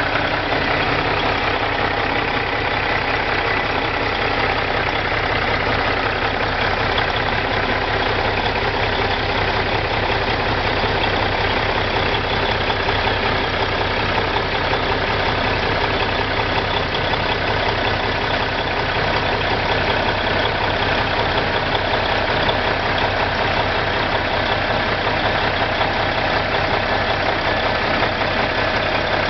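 Cummins diesel engine of a 2006 International 9400 truck idling steadily, with an even, fast diesel pulse that does not change.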